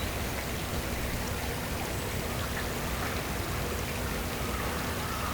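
Steady rushing noise of flowing water, with faint bird chirps near the end.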